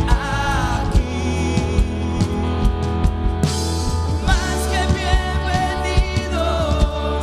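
A worship band plays a Christian song, with steady drum hits and a sustained bass under a sung melody.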